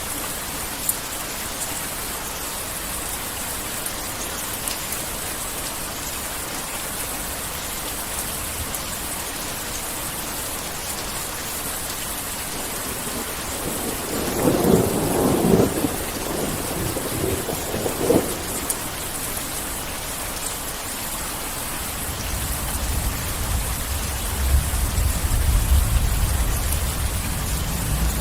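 Heavy rain falling steadily, with thunder: a crack and rumble about halfway through, then a deep, low rolling rumble that builds near the end.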